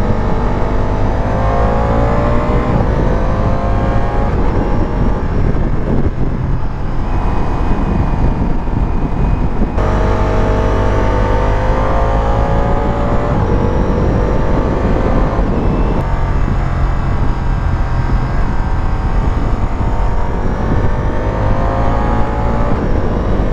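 Ducati Diavel V4's V4 engine running under way, heard from the rider's seat with wind rush; its pitch climbs and falls back several times as the throttle is opened and eased.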